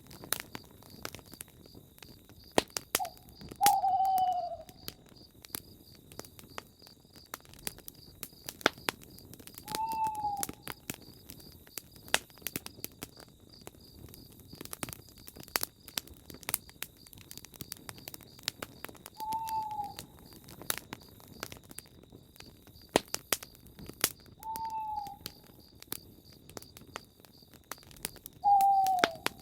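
A crackling campfire, with sharp pops scattered throughout. Over it a bird gives a single short, falling hoot about five times, several seconds apart, and a faint steady high insect trill runs underneath.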